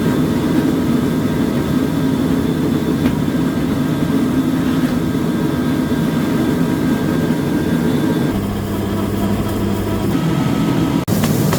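Rice milling machine running steadily with a continuous mechanical drone. Its sound changes slightly about eight seconds in and cuts out for an instant near the end.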